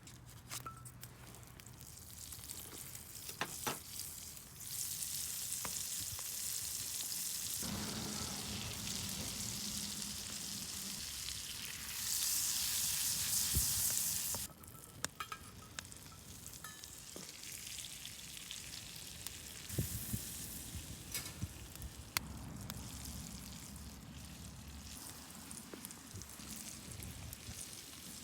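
Food sizzling as it fries in a pan, the hiss jumping louder and softer several times, with scattered small clicks and knocks.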